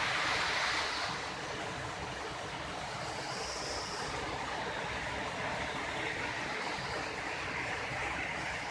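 Waterfall's steady rush of falling water, a little louder in the first second.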